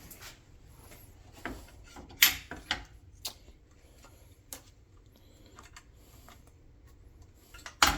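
Scattered small metal clicks and knocks as a shifter cable and its retaining pin are being fitted by hand, the sharpest about two seconds in.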